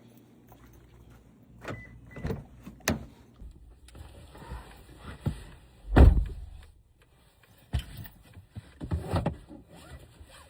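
A series of clicks and knocks from a door and things being handled, with one loud, low thud about six seconds in.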